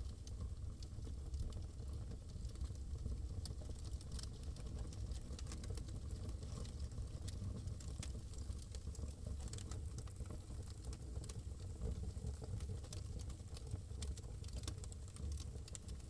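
Wood fire crackling in a fireplace: irregular small snaps and pops over a steady low rumble.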